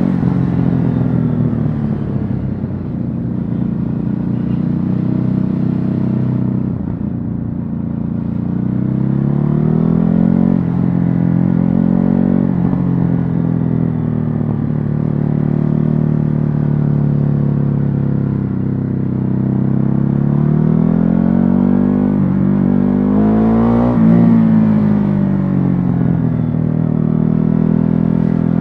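Stock Ducati Hypermotard 950 L-twin engine heard on board while riding, its note rising and falling repeatedly as the revs climb and drop through the gears, with a quick rise and fall about three-quarters of the way through.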